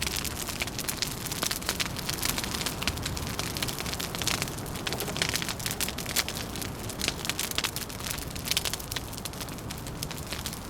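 Wood fire crackling, a dense stream of small pops and snaps, over a steady low rumble.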